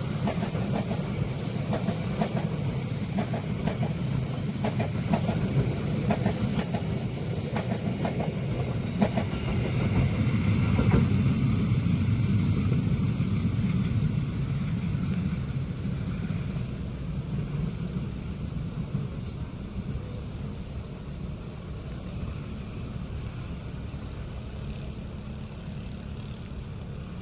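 Train passing: a steady low rumble with wheels clacking over rail joints. It is loudest about eleven seconds in, then slowly fades as the train moves away.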